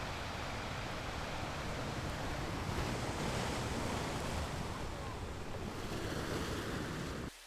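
Steady rushing of wind and water, with wind buffeting the microphone. It cuts off abruptly just before the end.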